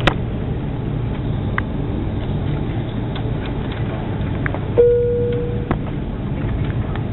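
Steady low rumble of an airliner's engines and cabin noise. A sharp click comes right at the start, and a single clear tone, like a cabin chime, sounds for just under a second about five seconds in.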